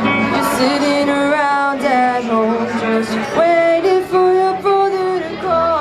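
Live rock band playing, with a lead melody of long held notes that slide from one pitch to the next over the band.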